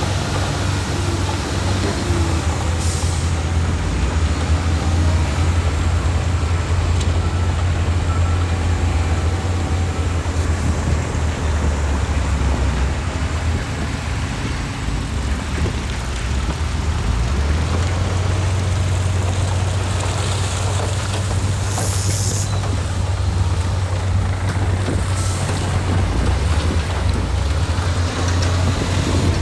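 Heavy diesel construction machinery running steadily with a deep low rumble. Short hisses of air break in about three seconds in and twice more in the second half, typical of a dump truck's air brakes.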